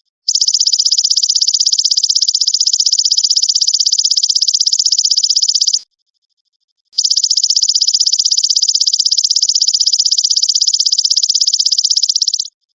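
Belalang emas (golden grasshopper) calling: a loud, high-pitched, fast and even buzzing trill in two long bursts of about five and a half seconds each, with a silent pause of about a second between them.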